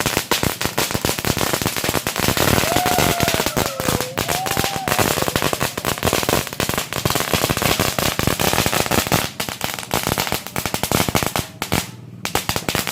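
A string of firecrackers going off in a rapid, irregular run of sharp bangs, thinning briefly near the end.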